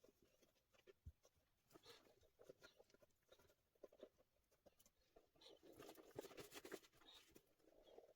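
Faint scattered clicks and soft rustling, with a longer stretch of rustling about six seconds in.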